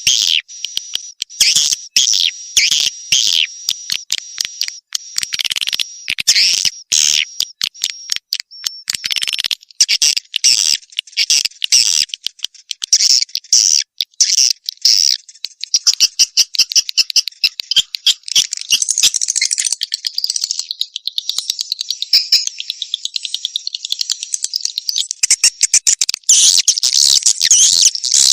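Edible-nest swiftlet calls played as a swiftlet-house lure: rapid, high-pitched chirps and twitters with a steady high tone through the first half, turning into a dense, fast trilling chatter from about halfway.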